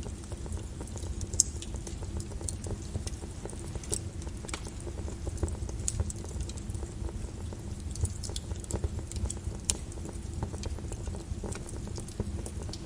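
Flowing volcanic lava: a steady low rumble with scattered sharp crackles and pops.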